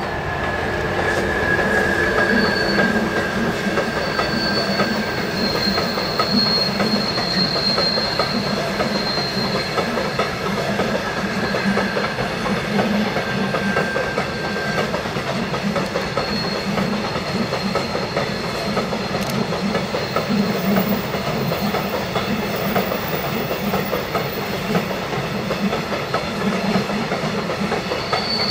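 Train running on the Semmering mountain railway: a steady rumble and rail clatter, with high wheel squeal against the rails coming and going. The loudness builds over the first couple of seconds.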